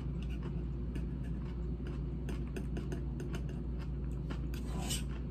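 A person chewing crunchy salad close to the microphone, a series of short crisp crunches and clicks, over a steady low hum.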